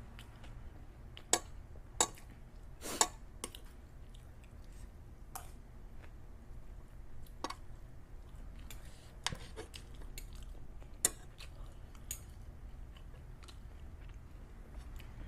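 A person eating at close range: soft chewing of stir-fried braised pork leg, with a few sharp clicks of a utensil against a plate.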